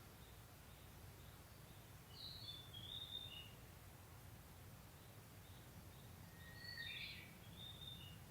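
Japanese bush warbler (uguisu) singing two faint phrases, the second opening with a held lower whistle before quick higher notes, with faint short chirps in between. A steady low hum runs underneath.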